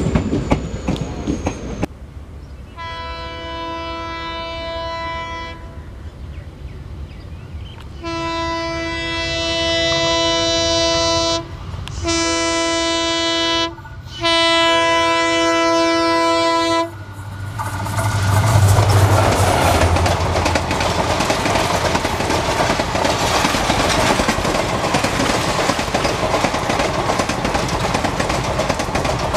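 A WDP4D diesel locomotive sounding its multi-tone horn as it approaches: one blast of about three seconds, then after a pause three more blasts with short breaks between them. Then the locomotive and its express coaches pass close by at speed, with a brief low engine hum and a continuous loud rush and clatter of wheels over the rail joints. Before the horn, coaches of another train roll past.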